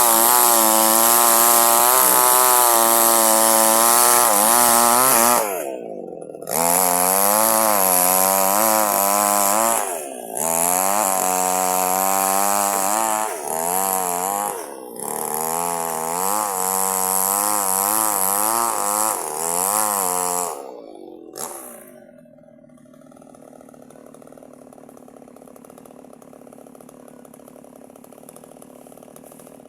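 Small chainsaw cutting durian wood: the engine runs at high revs under load, its pitch wavering, with a few brief drops in revs between cuts. About 22 seconds in it falls to a much quieter steady idle.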